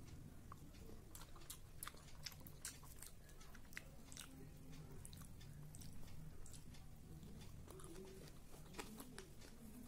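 Quiet close-miked chewing of rice and fried rohu fish, with frequent short sharp mouth clicks and smacks scattered throughout.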